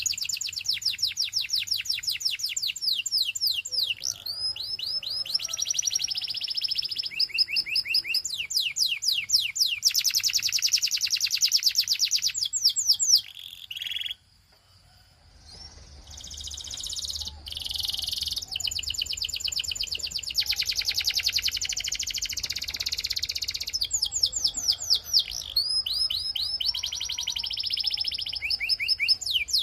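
Canary singing in long fast trills: one rapidly repeated note after another, in rolls that change from one to the next. The song breaks off briefly about halfway through.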